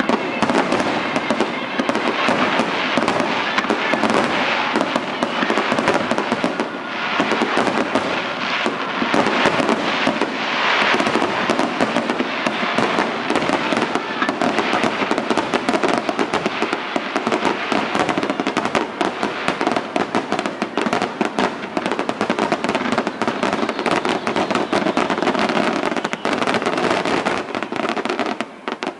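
Fireworks finale: a dense, unbroken barrage of bangs and crackling that stops abruptly near the end.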